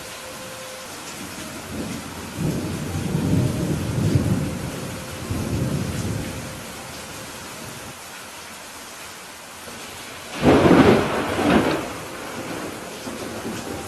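Steady rain during a thunderstorm. A low rolling rumble of thunder runs from a couple of seconds in until about six seconds in. A louder, sharper thunderclap comes about ten seconds in and dies away over a second or two.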